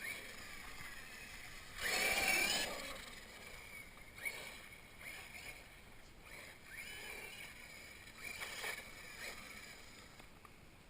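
1/8 scale RC monster truck driven in short bursts of throttle, the motor and tyres sounding in several separate spurts, loudest about two seconds in.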